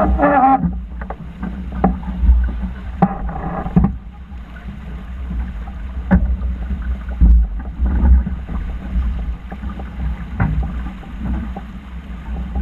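Wind buffeting the microphone in a steady, uneven low rumble aboard a racing sailing yacht, with water noise and scattered sharp knocks and clatters from the boat.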